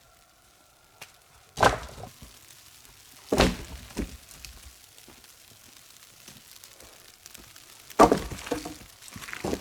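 Heavy wooden thunks and cracks: three loud strikes, the second about two seconds after the first and the third about four and a half seconds later, each followed by a few smaller knocks, as wood is struck and broken.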